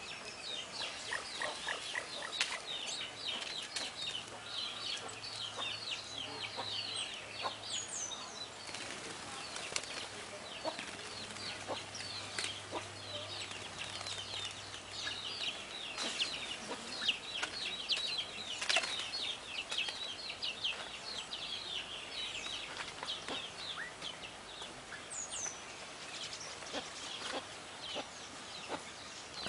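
Many small birds chirping at once, a dense chorus of short, quick calls with no pause.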